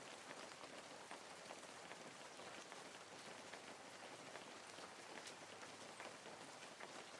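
Near silence: a faint hiss with scattered soft ticks.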